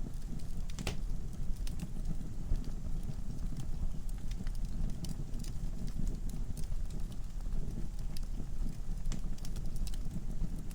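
Log fire burning in a fireplace: a steady low rumble of flames with irregular sharp crackles and pops from the burning logs.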